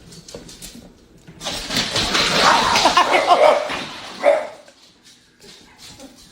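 A dog vocalizing loudly for about two seconds, then one more short call a little after four seconds in.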